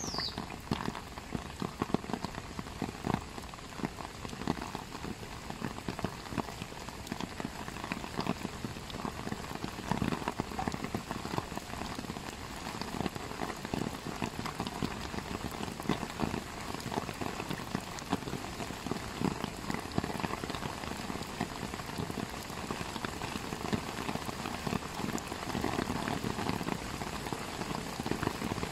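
Steady rain, with many irregular drops pattering on surfaces.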